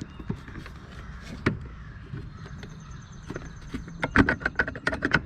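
Hand-tool work on the brake master cylinder: a single sharp knock about a second and a half in, then a quick run of clicks and knocks near the end.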